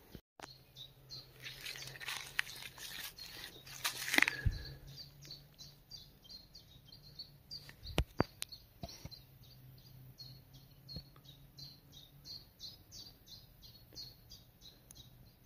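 A bird calling a short high note over and over, about three times a second, steady and even. Rustling in the first few seconds and a few sharp clicks about eight seconds in.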